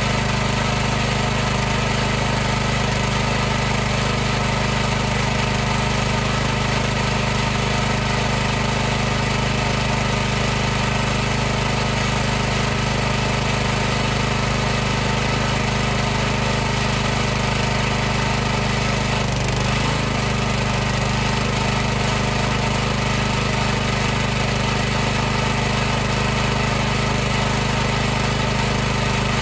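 High-pressure washer running steadily: a constant motor-and-pump drone with a steady hum, wavering briefly about two-thirds of the way through.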